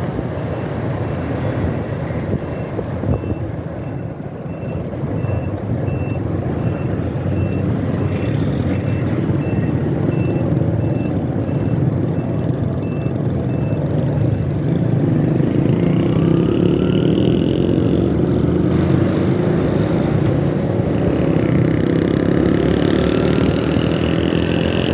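Steady road, wind and engine noise of riding through city traffic. A high beep repeats about twice a second for around ten seconds, and in the second half engines rise in pitch as vehicles speed up.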